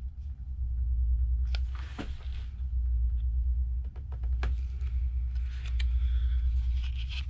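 Light clicks and short rustles of small tools and a metal bracket plate being handled during tablet repair, over a steady low hum.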